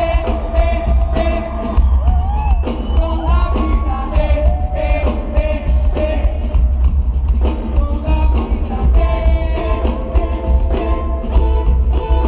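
Live Christian pop-rock band with singers, loud, with heavy bass and drums under a sung melody, recorded from the audience.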